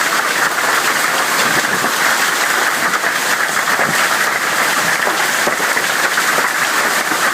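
Hail pelting down in a heavy hailstorm: a loud, steady, dense clatter of countless small impacts.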